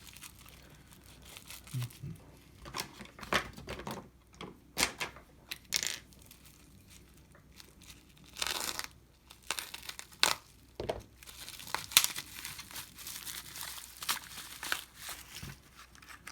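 A delivered package being opened by hand: irregular tearing and crinkling of the packaging, in scattered rustles and sharp crackles.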